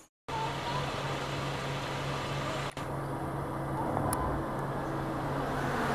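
A motor running steadily with a low, even hum over background noise.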